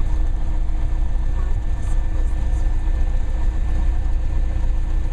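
Cessna 172 Skyhawk's piston engine running steadily at low power as the plane rolls out and taxis after landing, a constant drone.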